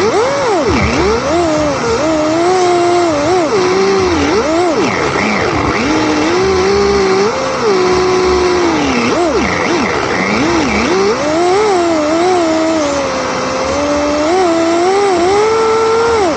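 Drift car engine revving hard, its pitch swooping up and down again and again with quick throttle lifts, and held high for a second or two at a time.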